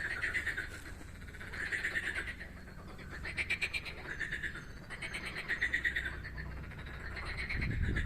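Frogs calling in a chorus: rattling, pulsed croaks in short trains about every second and a half, overlapping one another. A steady low rumble runs underneath, swelling briefly near the end.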